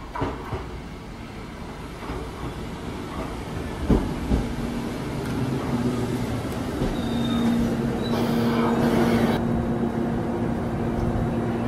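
Sanyo Electric Railway 5000 series electric train pulling into a station platform and stopping. A few clunks come from the wheels early on and about four seconds in, then a steady electric hum, with a burst of air hiss a little after eight seconds as the train halts.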